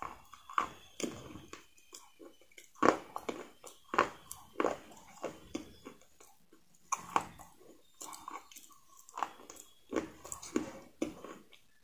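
A person chewing crispy fried chicken close to the microphone: irregular crunching bites, several a second in bursts, with short pauses between them.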